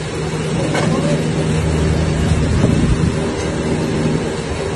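Drilling rig engine running steadily: a loud, even noise with a steady low hum.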